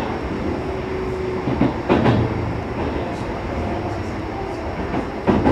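Sanyo Electric Railway 6000 series electric train running, heard from inside the passenger car: a steady rumble of wheels on rail, with pairs of clacks as the wheels cross rail joints about two seconds in and again near the end.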